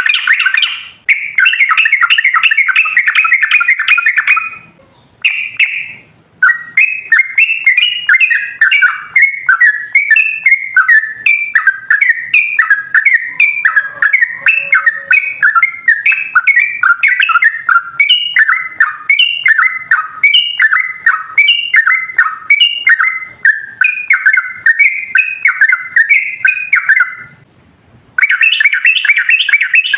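Yellow-vented bulbul (trucukan) singing loudly and continuously: rapid bubbling, chattering phrases that run on for about twenty seconds at a stretch, broken by a short pause about five seconds in and another near the end.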